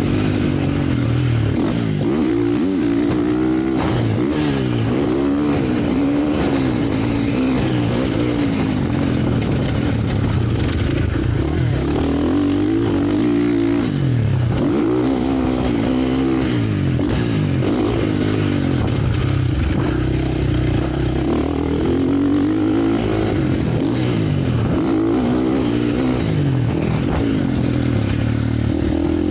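Several motocross bikes riding, their engines revving up and down over and over, with the rises and falls in pitch overlapping.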